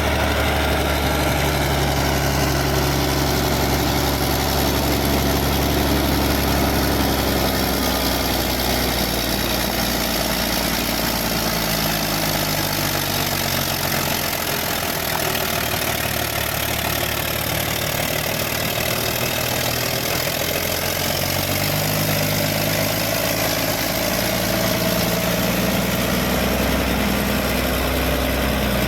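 Caterpillar D6D bulldozer's six-cylinder diesel engine running steadily. Its low note drops away for several seconds in the middle, then comes back.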